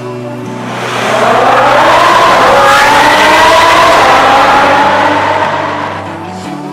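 Lamborghini Huracán EVO's 5.2-litre V10 through an iPE valved exhaust, accelerating hard. Its note climbs and grows loud from about a second in, holds, then fades away near the end, over background music.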